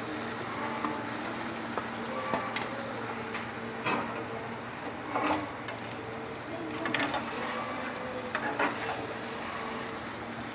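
Bitter gourd and potato pieces sizzling in a metal karahi of tomato-onion masala. A metal spatula stirs them in, scraping and clacking against the pan now and then.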